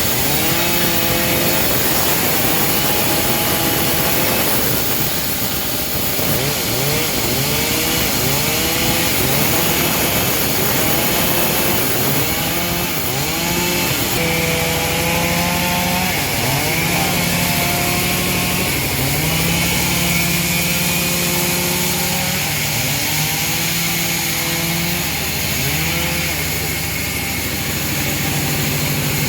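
Engine-driven homemade bandsaw mill cutting a teak log. The engine note runs continuously, dipping and recovering again and again as the blade takes load, with a steadier low hum setting in about halfway through.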